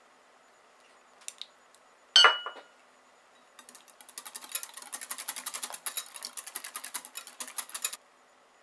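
A utensil strikes a bowl with one sharp ringing clink, then a bowl of custard mixture is whisked rapidly for about four seconds, quick scraping strokes that stop abruptly.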